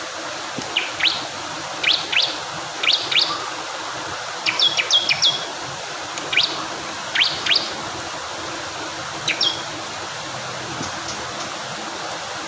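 Bar-winged prinia (ciblek kristal) giving short, sharp chirps, mostly in quick pairs about a second apart, over steady rushing water. The chirps stop about three quarters of the way through, leaving only the water.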